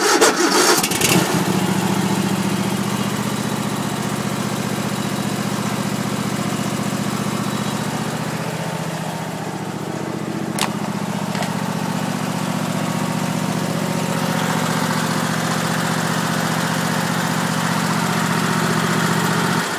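Troy-Bilt lawn tractor engine warm-started: it catches within about a second and then runs smoothly and steadily, with a single sharp click about halfway through. It starts and runs well when warm, unlike its rough cold start.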